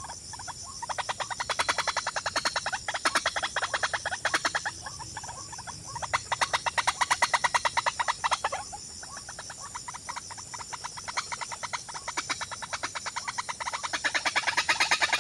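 Rapid pulsed animal calls, about ten pulses a second, coming in bouts of a second or two with short gaps, over a steady high hiss.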